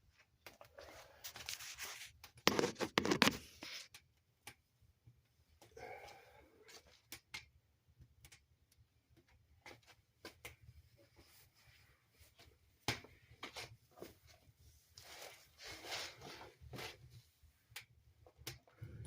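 Bursts of rustling and tearing as paper and kindling are handled at a fireplace, loudest about three seconds in, with scattered sharp crackles from the fire between them.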